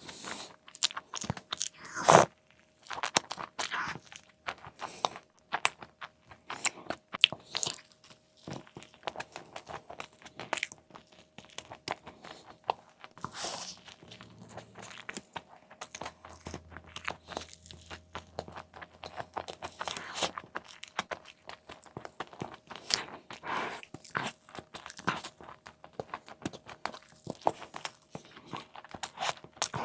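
Close-miked eating of a chicken burger: irregular crunching bites and wet chewing, one especially loud crunch about two seconds in.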